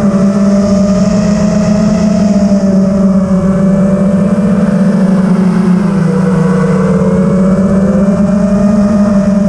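Drone's electric motors and propellers buzzing steadily in flight, the pitch dipping briefly about six seconds in and then coming back up as the throttle changes.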